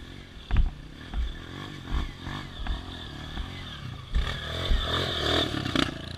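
Off-road vehicle engine running and revving, louder and harder from about four seconds in, with low thuds along the way.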